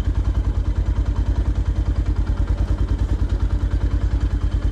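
Motorcycle engine idling with a steady, even rhythmic beat of about eleven or twelve pulses a second.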